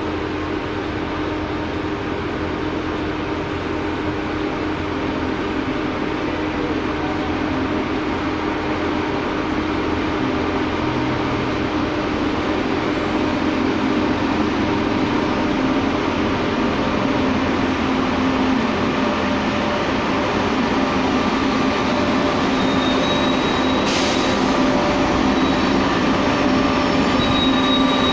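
A red-and-white Trenitalia high-speed electric train pulling slowly into the platform: a steady hum and rumble that grows gradually louder. A few seconds before the end there is a short hiss, then a faint high squeal of the brakes or wheels as it draws up.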